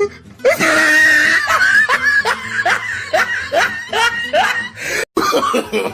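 Loud recorded laughter: a burst of breathy laughing, then a quick run of short "ha" strokes about three a second, cutting off briefly near the end.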